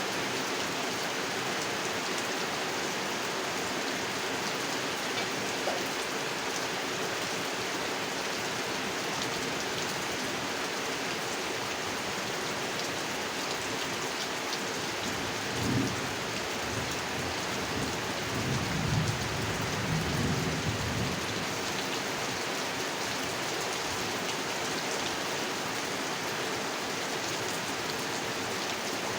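Steady heavy rain falling on a pond, with low rumbles of thunder rolling in twice around the middle.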